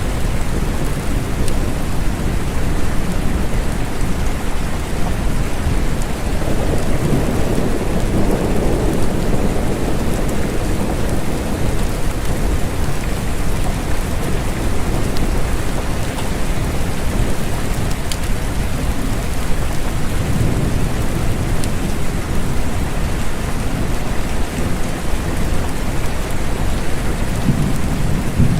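Steady rain falling, with low rumbles of distant thunder swelling and fading, the strongest about seven to ten seconds in and weaker ones later.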